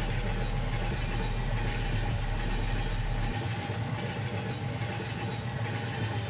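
An engine running steadily at idle, a low even hum; its deepest rumble drops away a little past halfway.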